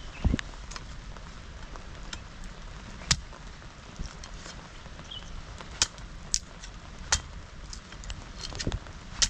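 Wood campfire burning, with sharp pops and cracks every second or so at irregular intervals over a steady low background. A dull thump comes just after the start.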